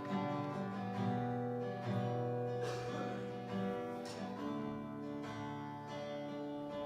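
Live band music led by strummed acoustic guitar chords, an instrumental stretch between sung lines of a worship song.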